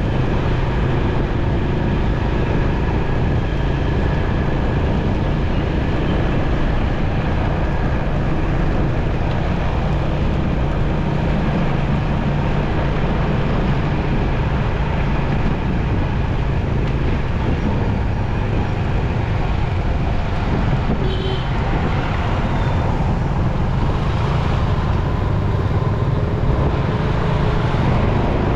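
Steady noise of riding a motorcycle through city traffic: the bike's engine running under the rush of road and wind, with other vehicles around. A brief short tone stands out about two-thirds of the way through.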